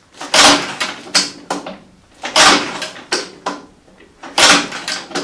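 A 1940 Fordson N's four-cylinder engine turned over slowly by hand: a loud puff about every two seconds, three times, each followed by a smaller click, as compression is built and released.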